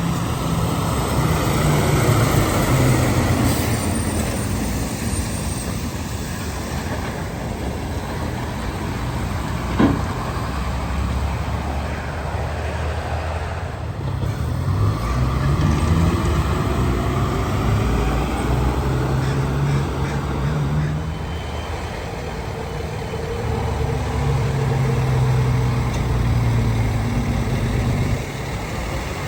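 Heavy diesel trucks and road traffic passing one after another, engines swelling and fading with their pitch rising and falling as each goes by. One short sharp click comes about ten seconds in.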